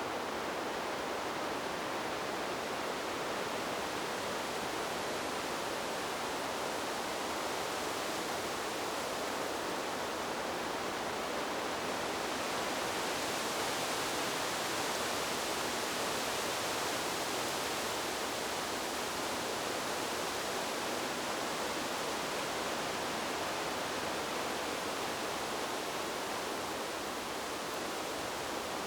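Wind blowing through trees, a steady rushing hiss that swells slightly in its upper part about halfway through.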